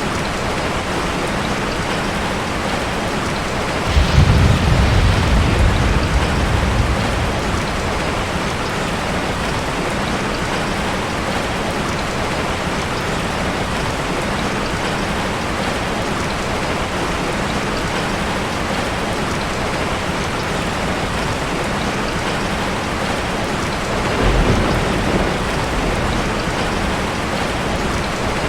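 Heavy rain falling steadily, with a loud low rumble of thunder about four seconds in that lasts a few seconds, and a softer roll of thunder near the end.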